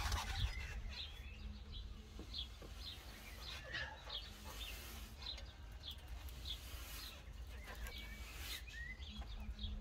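Small birds chirping repeatedly in short, irregular calls, faint, over a low steady hum.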